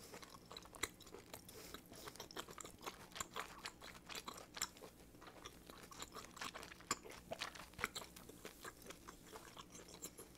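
Close-miked chewing of a mouthful of butter-grilled abalone topped with spicy stir-fried octopus: a quiet, steady run of small irregular mouth clicks.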